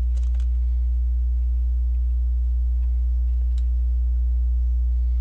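Steady low electrical hum, with a few faint clicks of plastic Lego pieces being handled and pressed together: a small cluster at the start and one more a little past halfway.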